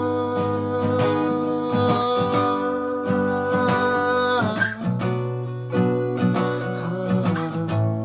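Song instrumental break: acoustic guitar strumming chords, with a long held melody note over them for the first half that slides up about four and a half seconds in.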